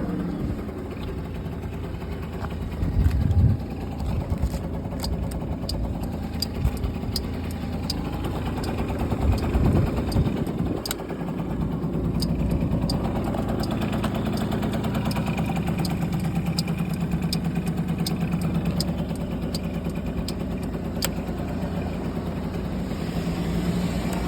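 Yamaha Jog BJ 50cc two-stroke scooter engine idling, with short louder bursts about three seconds and again about ten seconds in. Faint sharp ticks come through the middle of the idle.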